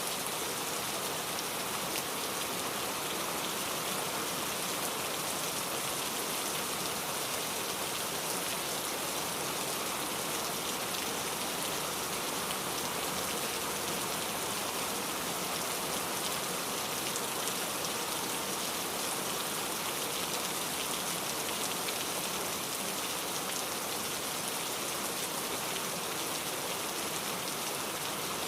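Steady rainfall, the patter of many drops hitting a surface, even and unbroken throughout.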